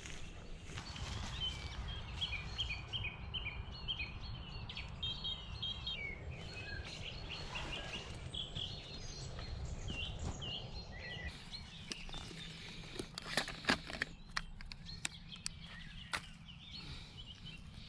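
Small songbirds chirping and singing, many short high notes, over a steady low rumble. A few sharp knocks stand out about two-thirds of the way through.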